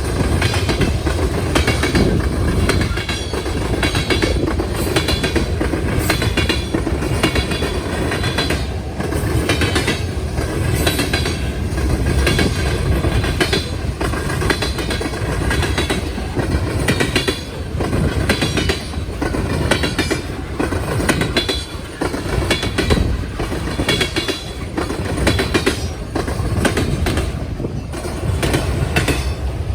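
Railroad cars rolling over a diamond crossing, their wheels clattering across the crossing's gaps in a continuous run of clicks and knocks over a steady rumble.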